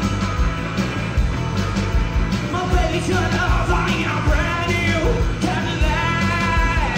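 Live rock-and-roll trio playing, with a steady drum beat and bass under electric guitar. A singer's voice comes in a little under three seconds in.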